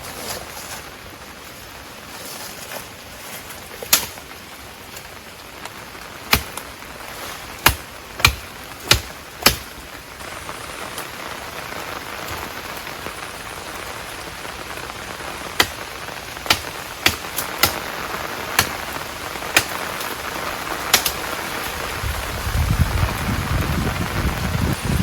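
Steady rain, with about a dozen sharp taps scattered through it and a low rumble in the last few seconds.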